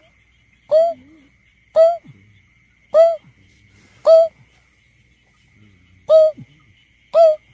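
Greater painted-snipe giving its hollow, owl-like hooting call: a series of short hoots about once a second, with a longer pause midway.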